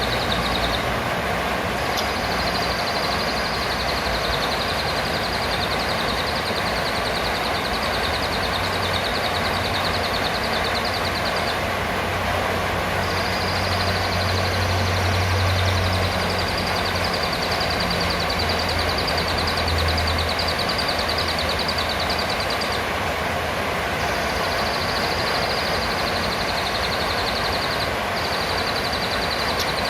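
Blue-crowned hanging parrot (serindit) giving high, rapid trilling calls in long runs of several seconds, with short breaks. Steady background noise runs underneath, with a low rumble through the middle.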